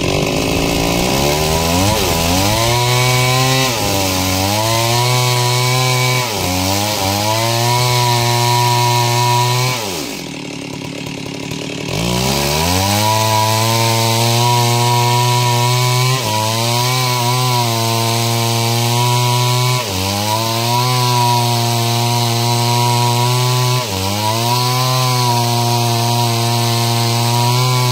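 Stihl two-stroke chainsaw ripping a log lengthwise into planks, held at high revs under load. The revs sag briefly every few seconds, drop to idle for about two seconds near the middle, then climb back.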